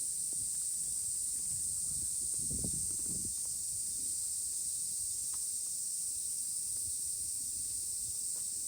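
Steady, high-pitched chorus of summer insects, an unbroken hiss-like drone, with a faint low rumble of handling or rustling around the middle.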